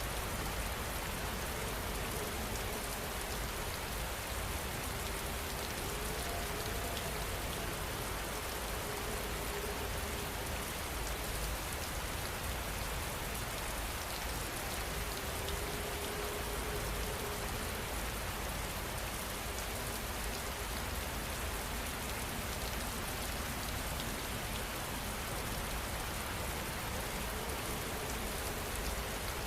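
Steady rain falling on surfaces, an even, unbroken patter of drops.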